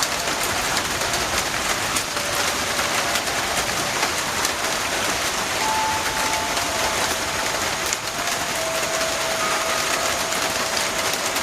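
Heavy rain falling steadily, with many small drop hits. A few faint held tones from wind chimes ring now and then, one sounding for several seconds in the second half.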